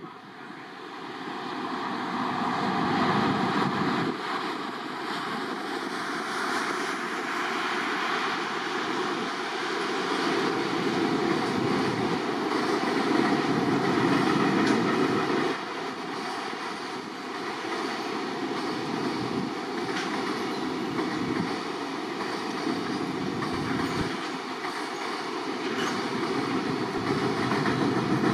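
A two-car JR 701 series electric train running along the track, a steady rumble of wheels on rail that builds over the first few seconds and holds.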